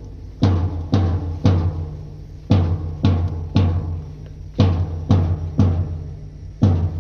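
Deep bass drum beats in a steady marching pattern: three strikes about half a second apart, then a short rest, repeating about every two seconds.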